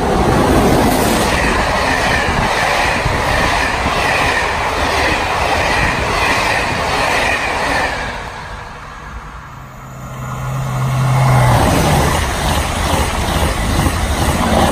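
An electric locomotive hauling passenger coaches passes through a station, loud with wheels on rail and a high whine for about eight seconds before fading. After a short lull and a brief low steady tone, a TGV inOui double-deck high-speed train passes.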